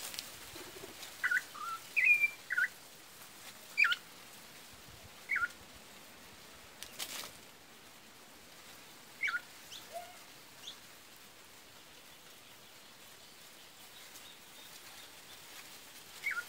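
Campo troupials (corrupião) calling: about ten short, sharp notes, most sliding downward, in loose clusters with gaps of quiet between them.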